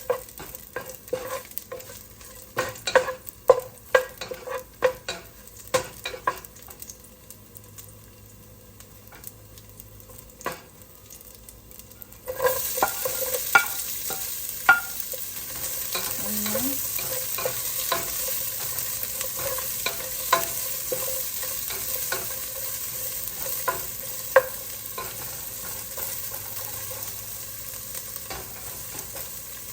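Chopped garlic frying in oil in a pan, stirred with a utensil that clicks and scrapes against the pan. About twelve seconds in, the sizzling suddenly gets much louder and stays as a steady hiss while the stirring goes on.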